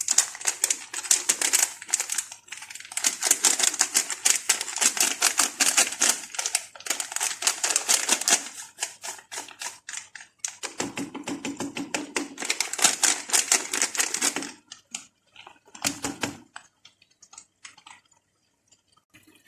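Spoon scraping and stirring in a cooking pan, a rapid run of clicky scrapes in several bursts with short pauses, thinning out near the end.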